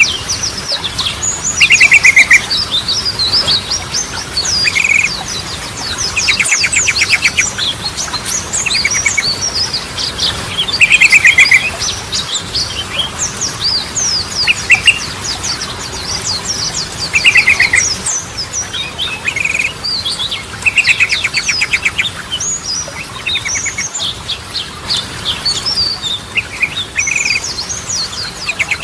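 Yellow-vented bulbul song: short, fast trilled bursts recur every few seconds over a dense run of quick, high, downslurred chirps.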